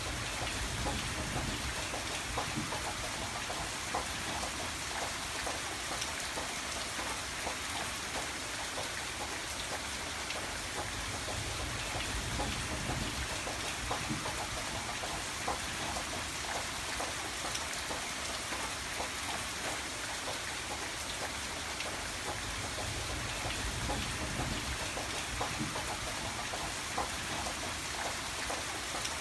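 Steady rain, with many small drops tapping on a surface, and a low rumble that swells and fades a few times.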